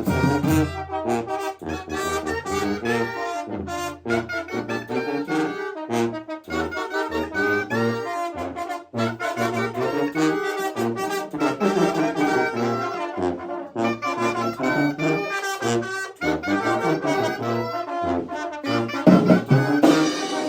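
A brass band playing a chilena, with trumpets and trombones carrying the melody. The low bass part drops away after the first second or two and comes back strongly near the end.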